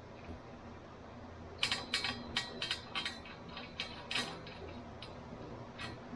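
Light clicks and knocks of metal parts and tools being handled while a muffler is fitted up. About a dozen come in a quick cluster between one and a half and four and a half seconds in, then one more near the end.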